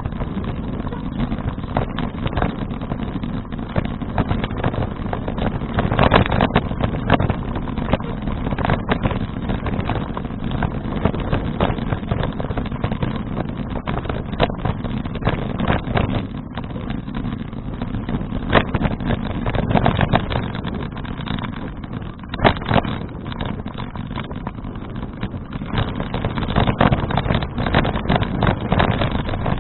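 Wind noise on a bicycle-mounted action camera's microphone during a ride, with many short knocks and rattles throughout.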